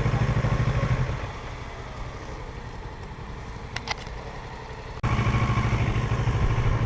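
Parallel-twin motorcycle engine idling with an even pulse. About a second in it falls away to a much quieter background with a couple of faint clicks, and about five seconds in the idle comes back abruptly.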